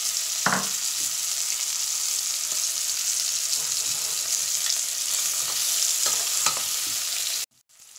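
Pork bones and onions sizzling steadily as they brown in hot fat in a stainless steel pot, with a few knocks of tongs against the pot as they are stirred about six seconds in. The sound cuts off suddenly shortly before the end.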